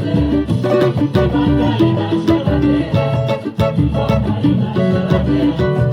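Instrumental samba: a strummed cavaquinho and other plucked strings over a bass line and percussion in a steady, lively rhythm, with no singing.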